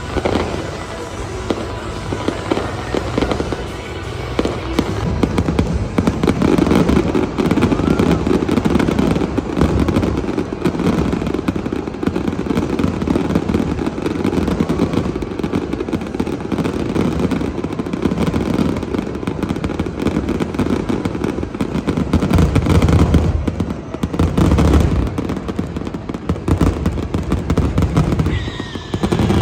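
Fireworks display going off in rapid succession: a dense, continuous barrage of bangs and crackling, with music playing underneath.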